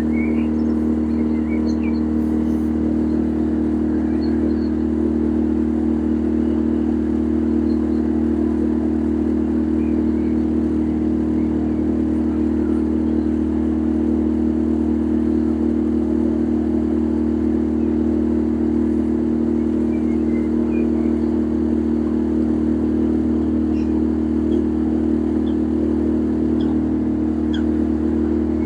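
Motorboat engine running steadily at constant cruising speed, a loud even drone with no change in pitch.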